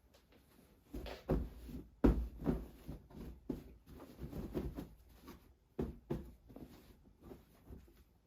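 Irregular knocks, clicks and rustling of objects being handled, with the loudest thud about two seconds in.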